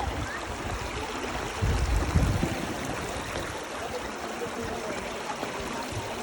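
River water flowing steadily, a continuous rushing. About two seconds in, a brief low rumble of wind buffets the microphone.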